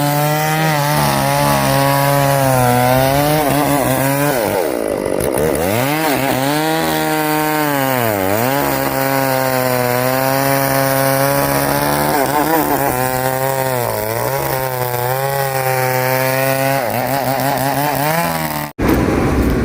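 Chainsaw running at high revs while cutting through a log, its pitch sagging several times as the chain bites into the wood and picking back up between cuts. It cuts off suddenly near the end.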